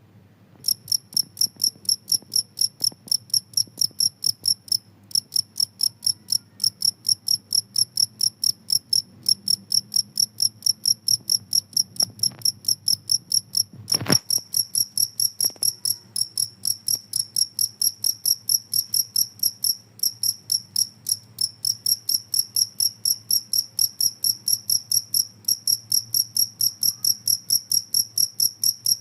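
Field cricket (jangkrik kalung) chirping in a steady run of short, high-pitched chirps, about three a second, starting just under a second in with a few brief breaks. A single sharp click about halfway through.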